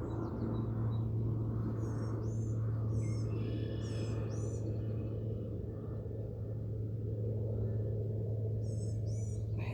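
Birds chirping in short, high, hooked notes, a run of calls from about two to four and a half seconds in and another near the end, over a steady low hum.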